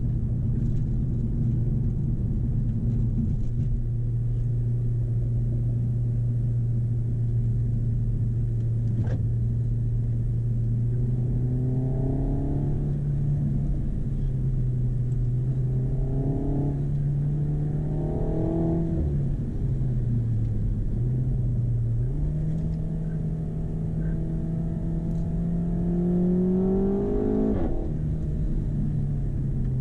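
Renault Megane RS Cup's 1.8-litre turbocharged four-cylinder engine pulling on the road, its note climbing in pitch under acceleration about a third of the way in and again past halfway, then a longer climb near the end, each time falling back sharply.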